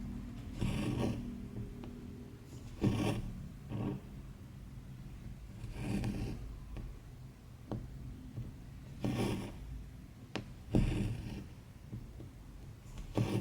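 Embroidery floss being drawn through 14-count cross-stitch fabric by hand: a series of short rasping swishes, one every one to three seconds, with a few small clicks between them.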